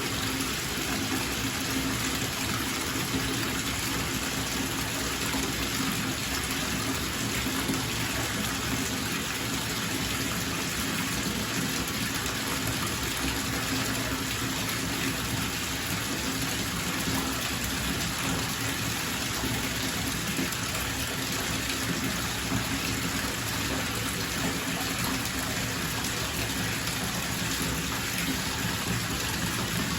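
Bathtub tap running into the tub as it fills, a steady unbroken gush of water.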